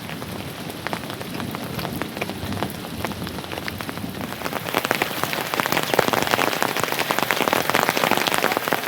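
Rain falling steadily, many drops pattering on a hard surface, growing louder about halfway through.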